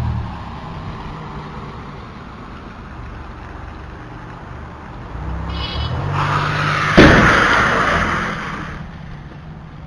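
Car crash heard from a dashcam. A vehicle hums steadily, a rush of noise builds, and then a sudden loud crash comes about seven seconds in, followed by scraping noise that dies away over about two seconds.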